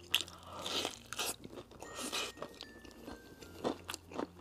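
Close-miked chewing of a mouthful of fried chicken coated in sesame-paste sauce, with scattered soft crunches and clicks from the coating.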